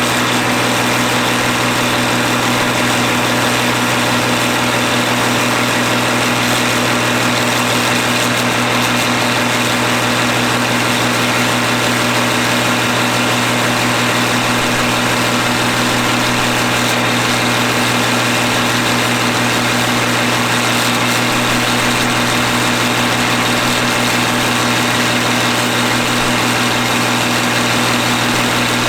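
John Deere 3650 tractor's diesel engine running steadily and evenly on a PTO dynamometer, holding a constant pitch with no change in speed.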